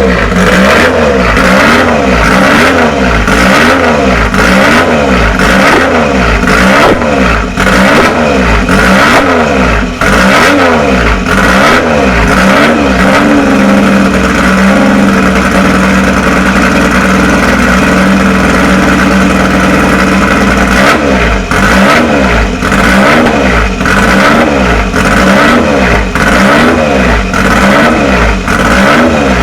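Triumph Trident Rob North racebike replica's three-cylinder engine being revved in quick, repeated throttle blips. About halfway through it is held at steady, higher revs for several seconds, then the blipping resumes.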